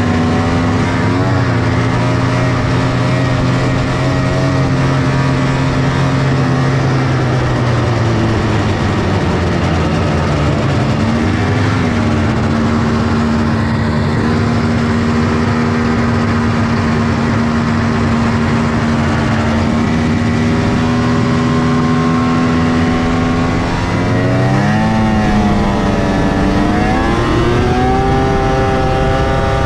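1997 Polaris XCR 600 snowmobile's three-cylinder two-stroke engine, on factory triple pipes, running under throttle. Its pitch holds steady, drops back about eight seconds in, holds again, then climbs in uneven surges near the end.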